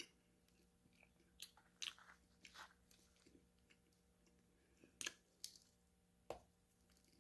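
Close-miked eating of crunchy food: several sharp crisp bites and crunches with short pauses between, two pairs of them about a second and a half and five seconds in, and a last one near the end, with quiet chewing between.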